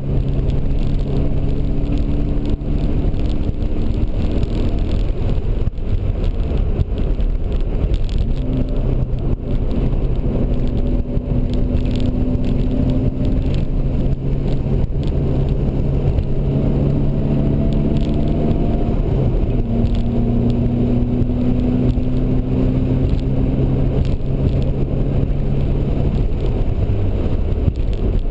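Nissan 240SX engine running hard on a hot lap, heard from inside the cabin over road and wind noise; the engine note holds steady and changes pitch in steps several times.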